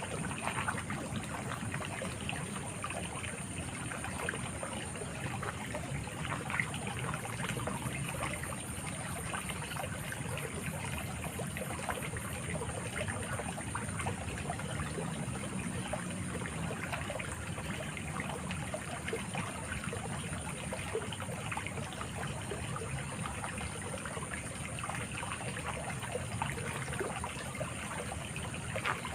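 A small river or stream flowing steadily, trickling and burbling over stones, with a thin, steady high-pitched whine running throughout.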